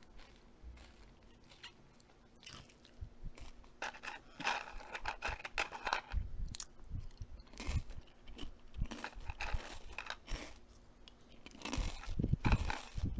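Close-up eating sounds: irregular crunching and chewing as food is bitten and broken up. The crunches are sparse at first, come thick and fast from about four seconds in, and are loudest near the end.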